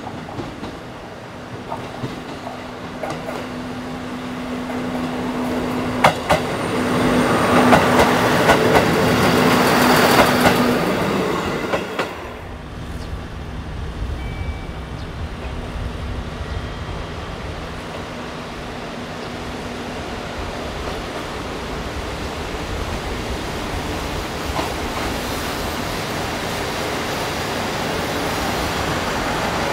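Diesel railcar moving close by, getting louder with sharp wheel clicks over the rail joints and peaking about 8 to 11 seconds in, then dropping to a steady diesel engine hum for the rest of the time.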